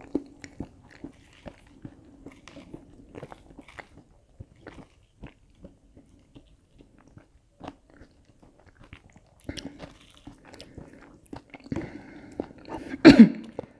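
Quiet chewing and biting of breaded filled pancakes and lettuce, with small scattered mouth clicks and crunches. A louder sharp sound comes near the end.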